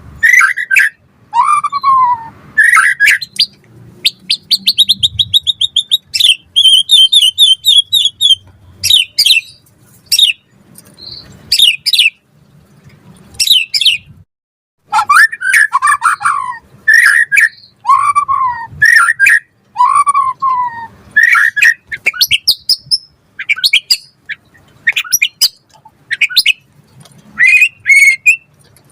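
White-rumped shama (murai batu) singing a loud, varied song in short phrases: clear whistles sliding down in pitch, alternating with rapid trills and sharp high notes, with short gaps between phrases and a longer pause a little before the middle.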